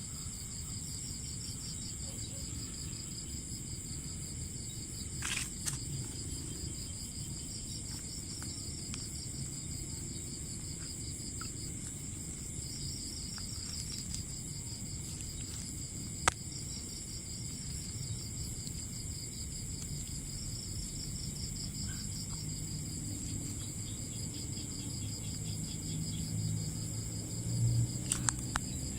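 Chorus of crickets and other insects: a steady shrill buzz in several pitches, one layer pulsing rapidly. A sharp click sounds about halfway through, with a few knocks and rattles near the end.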